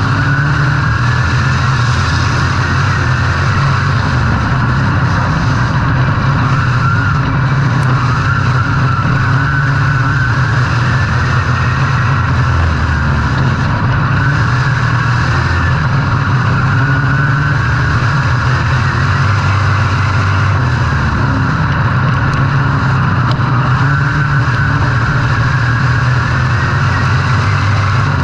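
A race vehicle's engine running hard and continuously, its pitch slowly rising and falling several times as the throttle is worked.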